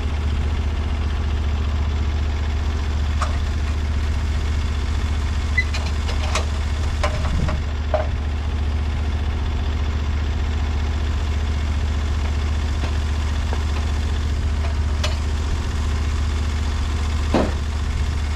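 An engine idling steadily, with a few light knocks and clinks over it, the loudest near the end.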